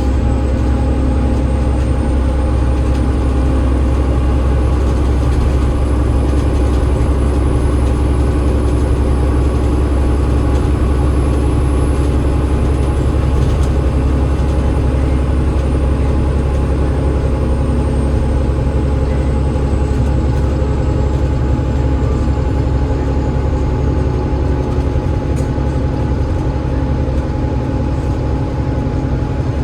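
Cabin sound of a Enviro500 MMC double-decker bus on the move: the Cummins ISL8.9 diesel and ZF EcoLife automatic gearbox running steadily under a loud low rumble. A faint high whine slowly rises in pitch and then falls back over the first two-thirds.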